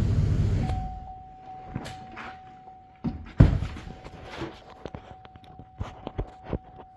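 Straight-piped 2005 Chevrolet Silverado engine idling, then shut off less than a second in. After that a thin steady high tone sounds over scattered knocks and footstep-like thunks, the loudest thunk about three and a half seconds in.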